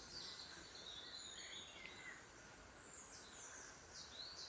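Faint birds chirping over a steady soft hiss of outdoor ambience, with several quick falling chirps near the end.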